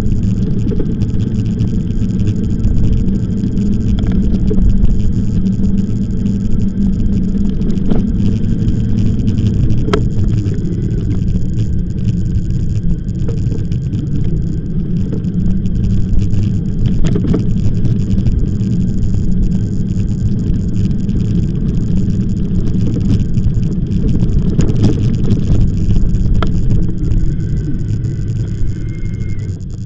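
Steady low rumble of wind and road noise on the microphone of a moving e-bike, with a few sharp clicks and knocks.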